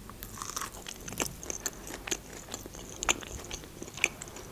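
A person chewing a mouthful of baked calzone pastry: soft crunching and mouth clicks throughout, with a few louder crunches about one, three and four seconds in.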